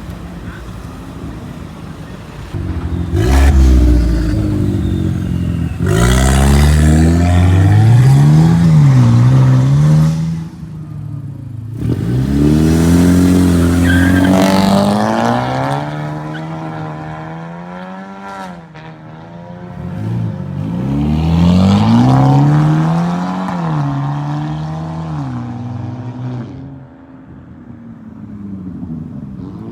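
Cars accelerating hard one after another, engines revving up with the pitch climbing and dropping back at each gear change, in three or four loud pulls.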